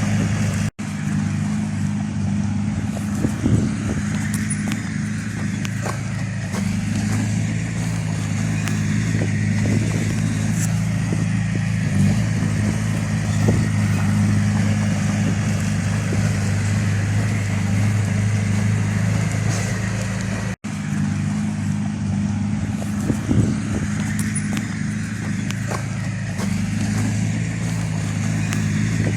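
Heavy-machine diesel engine running steadily, with a few brief knocks over it. The sound drops out for an instant twice.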